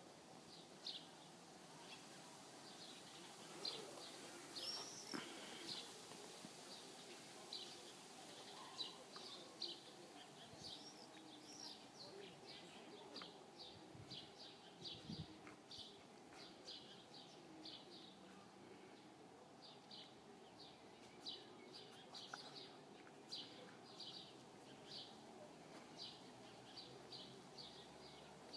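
Faint birdsong: small birds chirping over and over in short, high chirps, with one louder, longer call about four to five seconds in.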